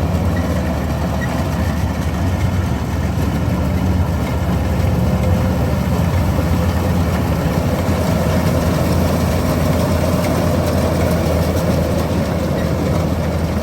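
Kubota combine harvester's diesel engine running steadily with a deep, even hum.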